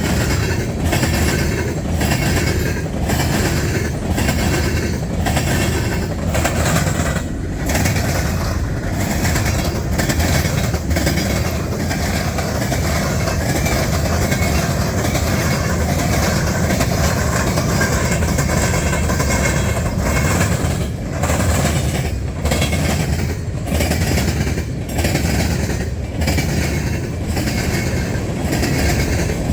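Double-stack freight train cars rolling past, their wheels clacking in an even rhythm over the rail joints, with a smoother stretch in the middle.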